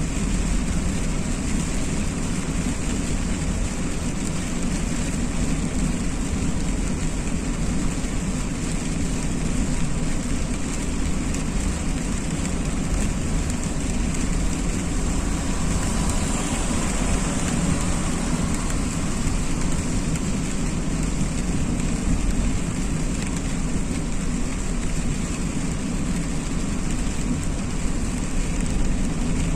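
A car driving on a wet road in the rain: a steady low road and engine rumble under an even hiss of rain and tyre spray.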